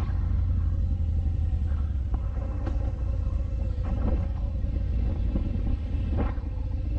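Harley-Davidson Fat Bob 114's Milwaukee-Eight 114 V-twin engine running while the motorcycle is ridden, a steady low rumble.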